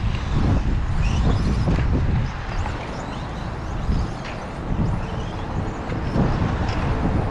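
Radio-controlled 2wd racing trucks running on the track: short rising motor whines as they accelerate, over a dense low rumble with irregular knocks.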